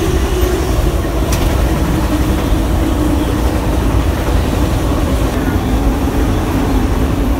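Passenger train running at speed: a loud, steady rumble of wheels on the rails with a constant low hum that slowly sinks in pitch. There is one sharp click a little over a second in.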